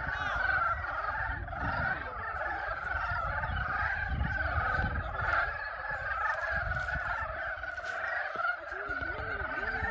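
Chorus of many frogs giving their mating calls at a pond, the calls overlapping into a steady wall of sound.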